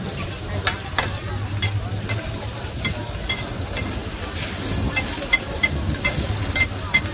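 Oysters and egg sizzling in hot oil on a large flat pan, with two steel spatulas scraping and clinking against the metal as the omelette is turned. The clinks come in quick runs, mostly in the second half.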